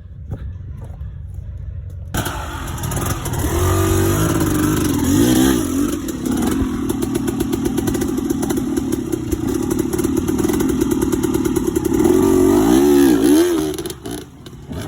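Dirt bike engine under throttle, coming in loud about two seconds in and revving up and down twice, then dropping away near the end.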